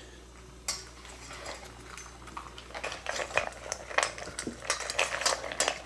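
Small clicks and clinks of cat food bowls, sparse at first and coming thick and fast from about three seconds in.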